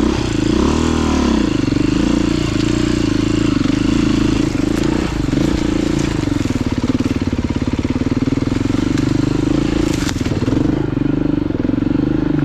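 Off-road motorcycle engine running steadily at low revs, with a brief rise and fall in revs about a second in.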